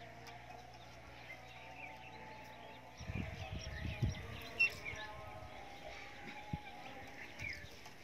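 Faint chirps and twitters of birds. From about three seconds in there are low rumbling bumps, with one short knock near the middle.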